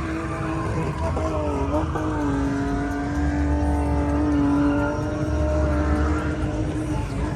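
Car engine held at high, steady revs, dipping briefly in pitch about a second and a half in before settling back to a held note.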